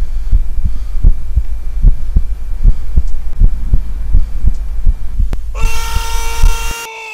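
Rapid, evenly spaced low thuds, about two and a half a second. About five and a half seconds in they give way to a loud, sustained horn-like tone that sags in pitch as it cuts off.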